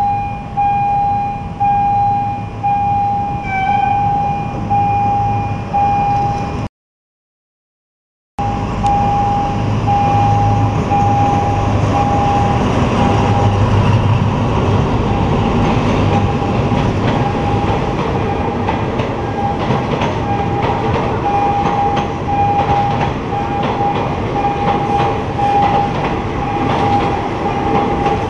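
Level-crossing warning signal beeping steadily on one pitch while a diesel-hauled passenger train passes close by. The locomotive's engine rumbles, then the coaches' wheels clatter over the rail joints. The sound drops out completely for a couple of seconds about seven seconds in.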